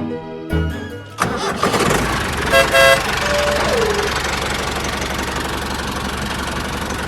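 Music cuts off about a second in. A mini tractor's engine then starts and runs steadily. Partway through, two short horn beeps sound, followed by a brief falling tone.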